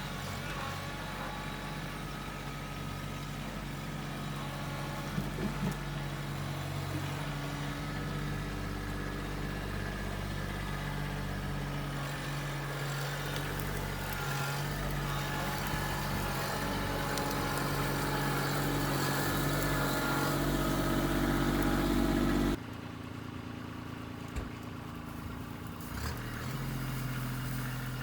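Tractor engine running steadily, with small shifts in pitch. About 22 seconds in the sound changes abruptly to a quieter stretch of engine running.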